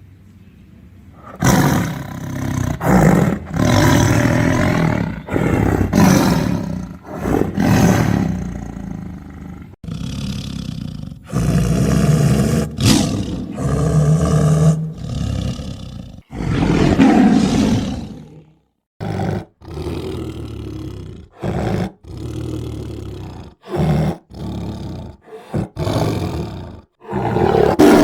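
Tiger roaring and growling repeatedly, starting about a second in: longer roars at first, then shorter ones in quick succession after a brief pause.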